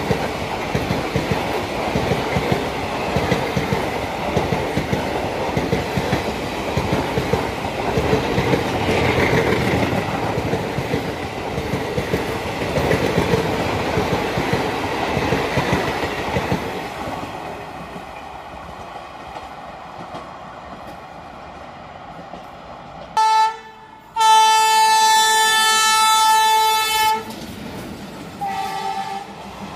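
Passenger coaches rolling past close by, their wheels clattering rhythmically over the rail joints, the noise easing off after about 17 seconds. Then an Indian Railways diesel locomotive's horn sounds several tones at once: a short blast, a long blast of about three seconds, and another short blast near the end.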